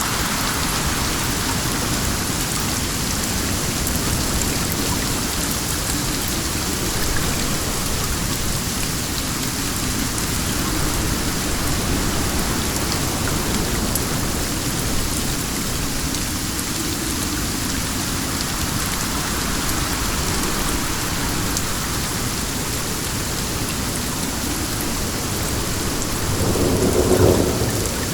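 Steady heavy rain falling. A brief low rumble swells up near the end.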